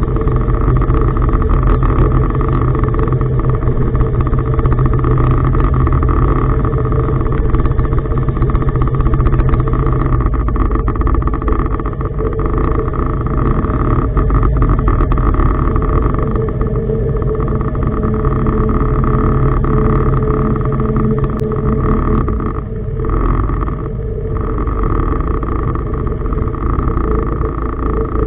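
Tugboat's diesel engine running steadily, a loud, even drone heard on board, easing briefly about two-thirds of the way through.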